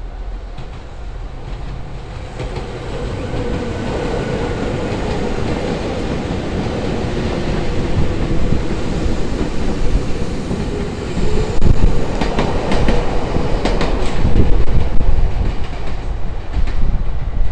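Shintetsu (Kobe Electric Railway) electric train running close by, growing louder as it nears, with a steady hum and the clack of wheels over rail joints in the second half.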